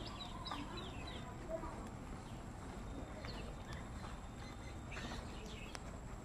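Birds calling: clusters of short, high, falling chirps repeated through, over a steady low background noise.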